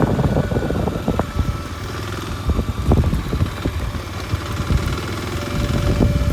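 Kawasaki Super Sherpa's air-cooled single-cylinder four-stroke engine running steadily, with scattered sharp knocks from the bike moving over a rough forest road.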